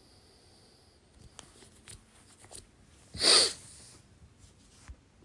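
A few faint clicks, then about three seconds in a single short, loud nasal burst of breath from a person close to the microphone.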